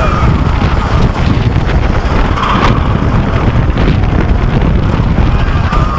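Wind rushing over the microphone and the low rumble of a wooden roller coaster train (GhostRider) running at speed over its track, loud and steady.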